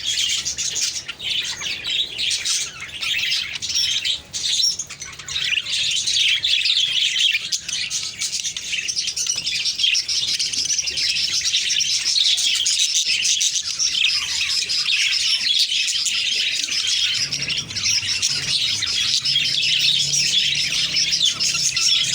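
Small birds chirping and twittering without a break, a dense high-pitched chatter. A faint low hum joins in about seventeen seconds in.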